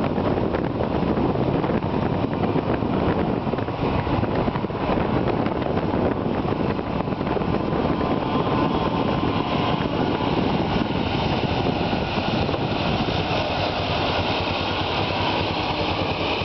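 Small mini bike engines running steadily, a dense engine noise with a thin higher whine coming in about halfway through.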